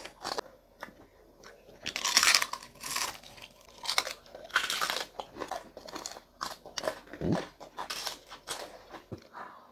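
A person biting and chewing crunchy food, in irregular crunches.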